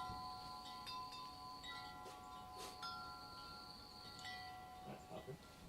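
Metal wind chimes ringing: several clear tones at different pitches, struck at irregular moments and left to ring on.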